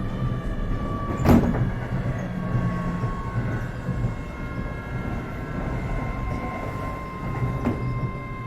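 Keio 7000 series electric commuter train running at speed, heard from inside the passenger car: a steady rumble of the wheels on the rails under a steady, multi-toned whine. Two sharp knocks come through, one about a second in and one near the end.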